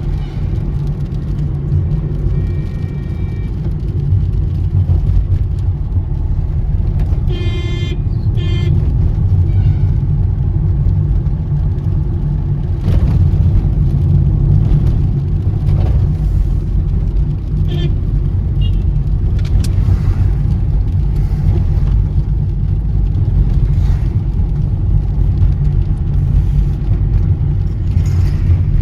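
Steady low rumble of a car driving: engine and road noise. A brief tone with several pitches sounds about seven seconds in, and faint clicks come now and then in the second half.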